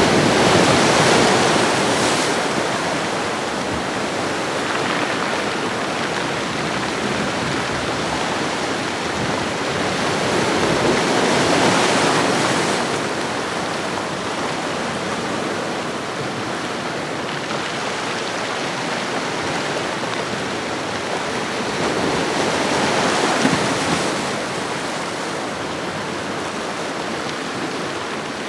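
Ocean waves washing onto a shoreline: a steady hiss of surf that swells three times as waves break, near the start, about twelve seconds in and about twenty-three seconds in.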